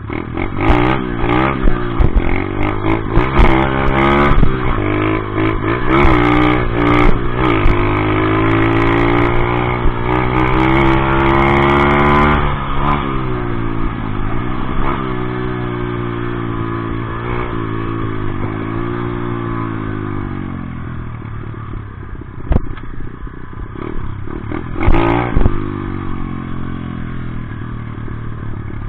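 Off-road motorcycle engine being ridden hard, revving up and down through the gears with one long climb in pitch that then drops away, with rattles and knocks from the bike over rough ground.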